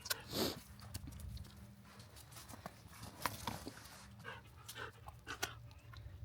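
A Belgian Malinois panting in short, irregular breaths.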